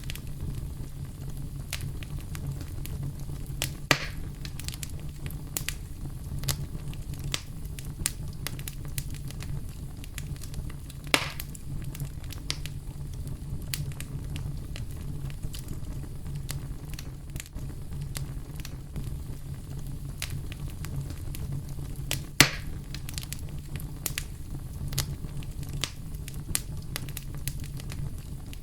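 Campfire crackling and popping over a steady low rumble of brown noise, with a few louder pops about 4, 11 and 22 seconds in.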